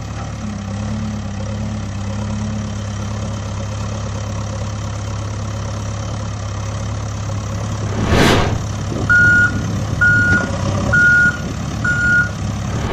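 Heavy truck engine idling with a steady low hum; about eight seconds in, a brief loud burst of noise, followed by a truck's reversing alarm beeping four times, about once a second.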